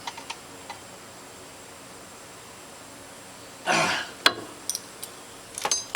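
A short breathy exhale or throat-clear about two-thirds of the way in, then a few sharp clicks and, near the end, metallic clinks that ring briefly, as of small metal fittings or tools being handled.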